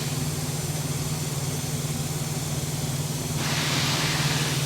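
Engine idling with a steady low hum. A rush of air hiss comes in about three and a half seconds in and keeps going.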